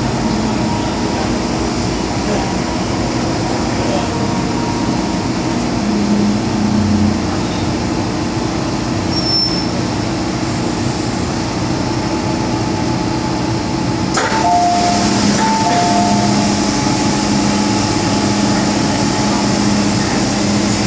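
MTR M-Train running, heard from inside the car: a steady rumble with humming motor tones, a sharp click about 14 seconds in, and short paired tones just after it.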